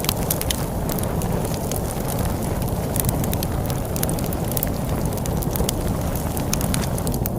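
Log fire crackling, with many sharp pops and snaps several times a second, over a steady low rumble of storm wind.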